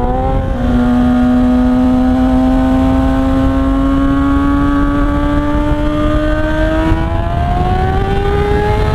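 Kawasaki ZX-6R 636's inline-four engine pulling hard under acceleration. A gear change comes about half a second in, and then the engine note rises slowly and steadily as the revs build in the new gear.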